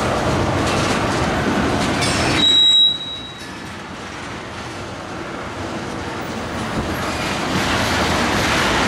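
Tank cars of a freight ethanol train rolling past, a steady noise of steel wheels on rail. A brief high wheel squeal about two and a half seconds in, after which the noise drops off and then builds again toward the end.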